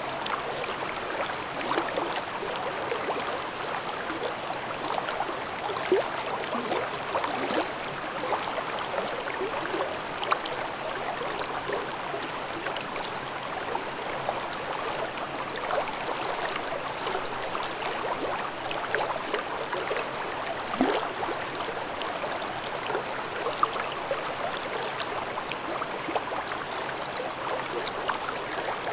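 Gorge stream babbling over rocks: a steady rush of water, full of small gurgles, with a few slightly louder splashes.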